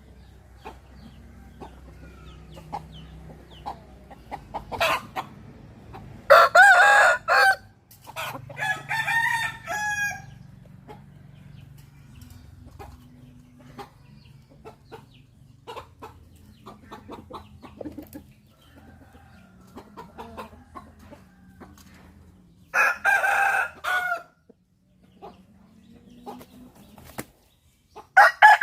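Roosters crowing several times, each crow a loud pitched call of a second or two, with quieter clucking and small clicks between the crows.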